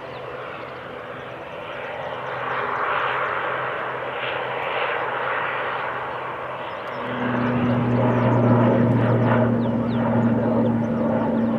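Airliner engines running nearby: a rushing noise that swells, then a steady low hum that comes in and grows louder about seven seconds in.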